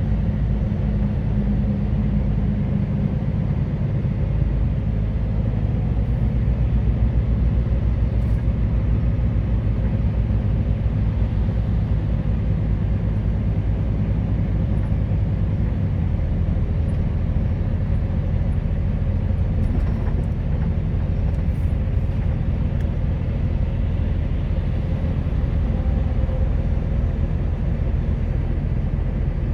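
Truck engine and road noise while driving, a steady deep drone, with a change in engine note about halfway through.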